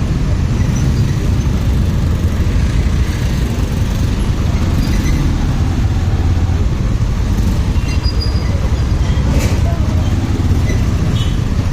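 Motorcycle riding through city traffic: a steady low rumble of the engine and road noise, with a couple of brief sharp clicks late on.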